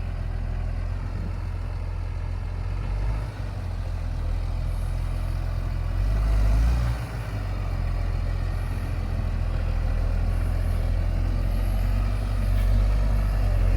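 New Holland T7040 tractor's diesel engine running steadily, getting louder about six seconds in and again near the end.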